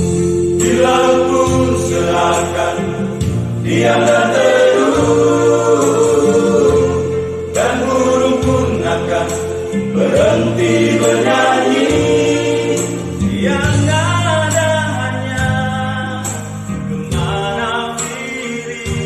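A vocal group singing a Christian worship song in harmony over instrumental accompaniment, with sustained low chords and light percussion keeping a steady beat.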